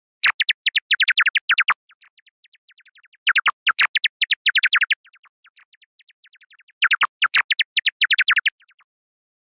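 Bat calls: three bursts of rapid high chirps, about eight a second, each burst trailing off into a run of fainter chirps.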